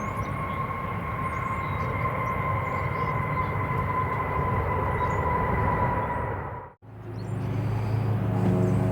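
Jet airliner engines running, a steady rush with a high whine, which cuts off abruptly about two-thirds of the way in. Music with low sustained notes then starts.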